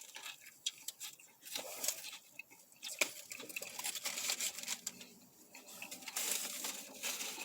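Soft rustling and crinkling of paper or food wrapping, with scattered small clicks and taps, loudest about a second and a half in and again near the end.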